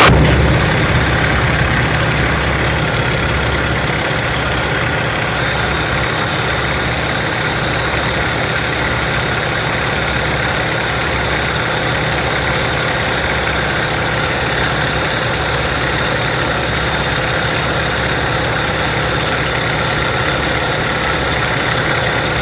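Nanchang CJ-6's nine-cylinder radial engine idling steadily. It eases down slightly over the first few seconds, then runs evenly.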